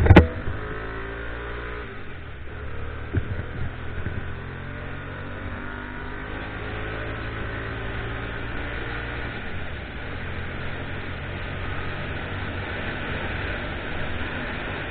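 Motorcycle engine running: a sharp loud sound at the very start, then the engine note falls over the first two seconds, a couple of knocks come three to four seconds in, and a steady engine and road noise carries on.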